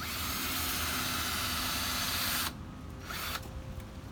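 Cordless drill spinning a sanding disc against a plastic headlight lens: a steady hiss for about two and a half seconds that then stops, followed by a brief softer hiss.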